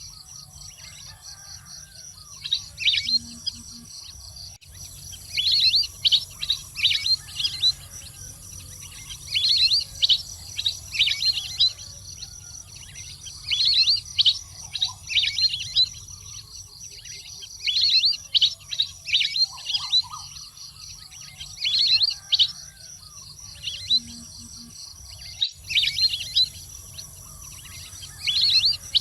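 Bird calls: bunches of quick, high, falling chirps coming every few seconds, over a steady high-pitched background hum.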